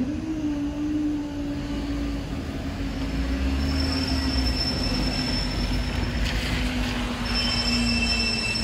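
Train passing at close range: a steady whine that slowly drops in pitch over a low rumble, with thin high-pitched tones joining in over the last few seconds.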